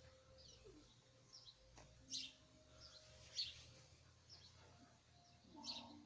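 Faint chirping of a small songbird: short, sharp calls repeated every second or so, three of them louder than the rest.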